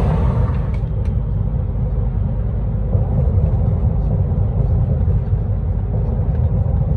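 Truck driving along, heard from inside the cab: a steady low engine and road rumble. A brighter hiss over it dies away within the first second.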